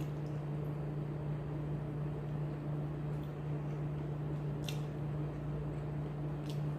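Steady low hum of a running machine or appliance, with two faint clicks in the second half.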